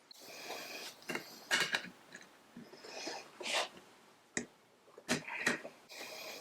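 Hands working small parts to glue barbed fittings onto a metal jar lid with epoxy: irregular scraping and rustling, with a few sharp clicks, the clearest about four and five seconds in.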